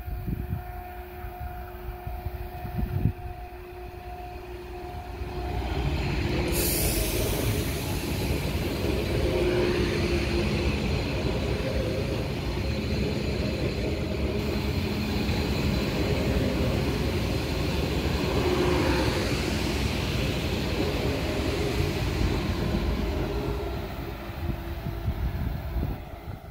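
An ICE electric train passing close by: a faint steady whine as it approaches, then a loud, steady rumble of wheels on rail and rushing air for about eighteen seconds as the carriages go past, dying away near the end.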